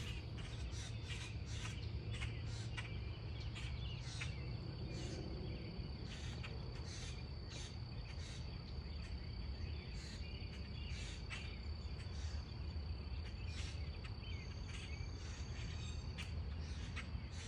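Outdoor backyard ambience: a steady high-pitched insect drone, with many short, irregular chirps or ticks over a low background rumble.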